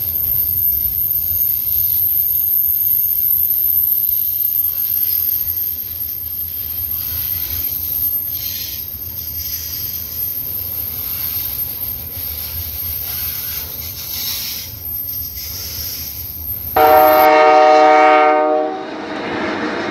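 Double-stack intermodal railcars rolling slowly past with a steady low rumble of wheels on rail. Near the end comes one loud blast of about two seconds from an EMD SD40-2 locomotive's three-chime Nathan K3L air horn.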